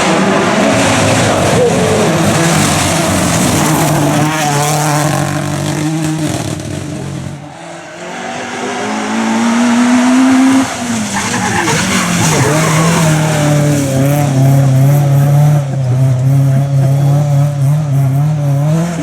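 Rally car engine running at high revs with tyres skidding. About halfway through, the sound dips briefly, then the engine revs up with a rising pitch that drops off sharply, and it runs on steadily after that.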